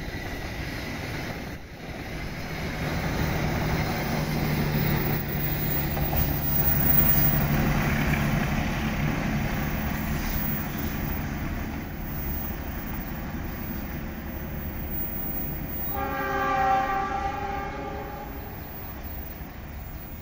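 Passenger coaches rumbling over the rails as they pass and move away, the rumble easing after about ten seconds. About sixteen seconds in, a horn sounds for about two seconds, from the train's CC206 diesel-electric locomotive far down the line.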